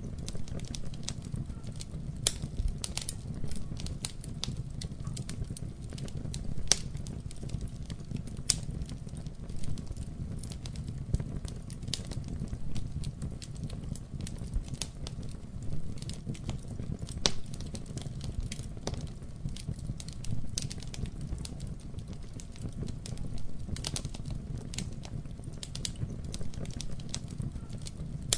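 Wood fire burning in a fireplace, crackling with frequent irregular sharp pops over a steady low rumble of flame.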